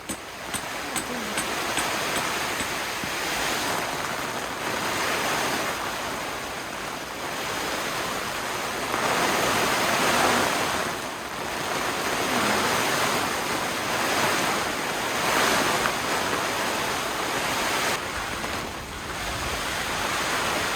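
Strong gusty wind rushing, swelling and easing every few seconds.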